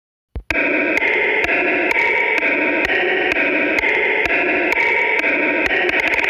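Synthesized imitation of a Honda NSX's C30A V6 engine, made with FL Studio Mobile's stock plugins. After a short blip it becomes a steady, static-like buzzing tone with a click about twice a second, and the clicks quicken near the end.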